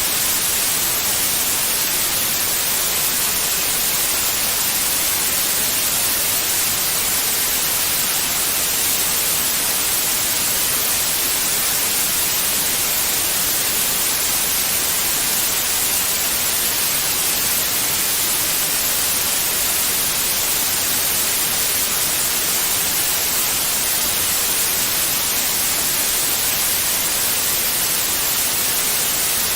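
Steady, unchanging white noise: an even hiss with no breaks or variation, strongest in the high end.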